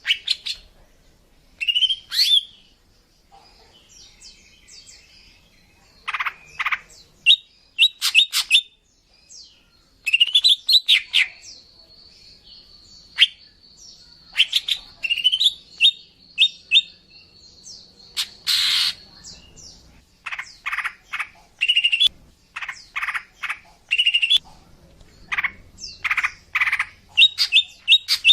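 Female greater green leafbird calling, the kind of call used to lure males: irregular runs of short sharp chirps and quick rising notes, with a long thin high note held for several seconds in the middle.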